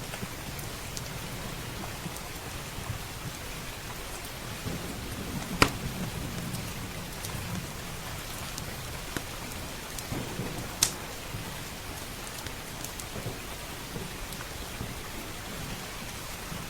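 Steady rain with low, rumbling thunder. A wood fire crackles over it with scattered sharp pops, the loudest about five and a half seconds in and another near eleven seconds.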